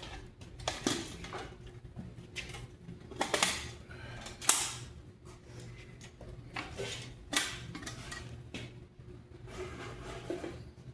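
Steel helmet plates and rivets being handled and fitted: scattered metal clinks and knocks at irregular intervals, the sharpest about four and a half seconds in.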